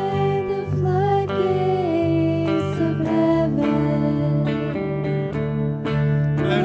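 Acoustic guitar strumming steadily, with a sustained melody line held over the chords.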